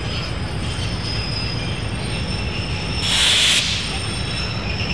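A diesel-hauled train running on the rails, with a steady low rumble and thin, steady high-pitched tones. A brief loud hiss comes about three seconds in.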